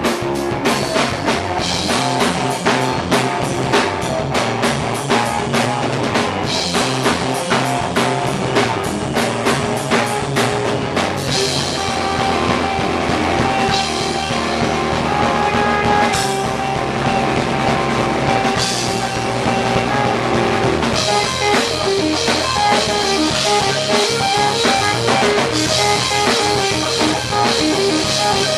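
Rock band playing live, drum kit and guitar. Fast, evenly spaced drum hits through roughly the first ten seconds, then a fuller wash of cymbals under held guitar notes.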